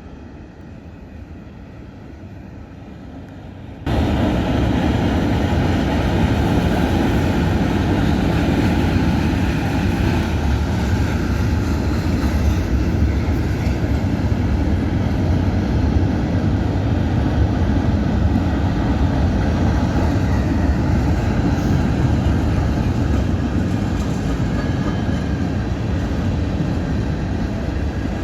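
Freight train rolling past close by: a loud, steady rumble that starts abruptly about four seconds in, after a quieter stretch of background noise.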